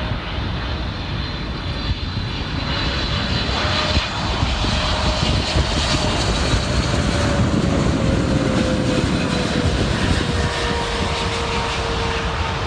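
Large jet airliner passing on approach to land, its engines a loud, steady rush of noise with a whine that slowly falls in pitch as it goes by.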